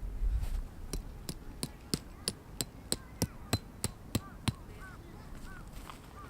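Hammer blows driving a tarp stake into the ground: about a dozen sharp, evenly spaced strikes at roughly three a second, stopping a little over four seconds in.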